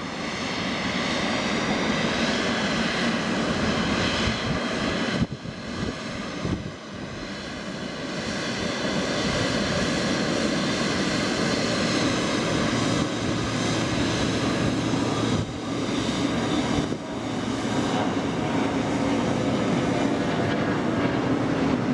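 Jet engines of a Boeing 767-300ER airliner taxiing close by: a loud, steady rush with a high whine running through it, dipping briefly a few times.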